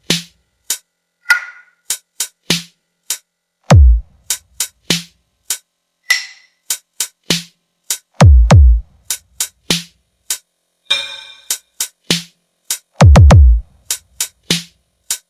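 Sound-check track of sparse electronic drum-machine beats: deep bass kicks that drop in pitch, in clusters about every four and a half seconds, between short sharp clicky hits.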